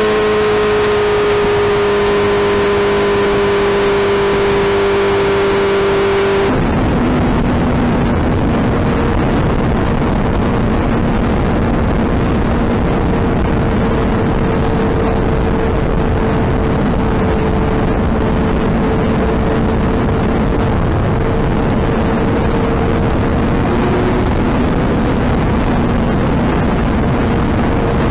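Suzuki Hayabusa's inline-four engine humming steadily at cruising speed, its note slowly falling. About six seconds in, the sound turns abruptly duller: a steady rush of riding wind with the engine tone faint beneath it.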